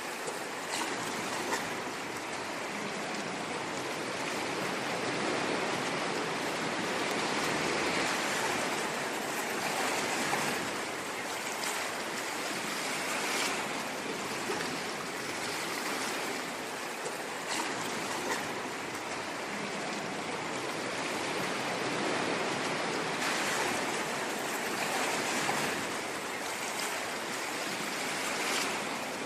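Ocean waves washing continuously on a shore, a steady rushing hiss that swells and eases every few seconds.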